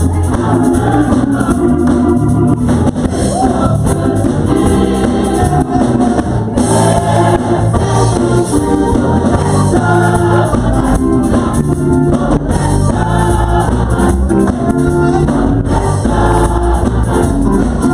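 Gospel choir singing with organ accompaniment and a steady bass.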